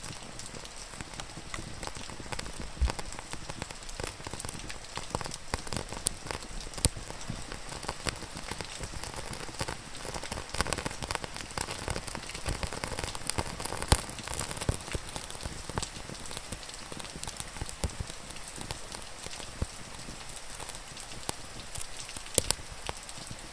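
Steady rain with a wood fire crackling: a constant hiss of rain, scattered with frequent sharp pops and snaps.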